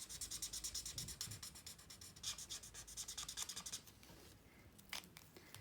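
Alcohol blender marker (Stampin' Blends, light petal pink) scratching over card in quick back-and-forth colouring strokes, several a second, stopping about four seconds in, followed by a couple of small clicks.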